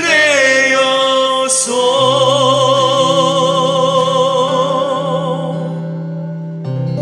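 A solo singer sustains a long note with wide vibrato over steady, held instrumental accompaniment in a worship song, and a new chord comes in near the end.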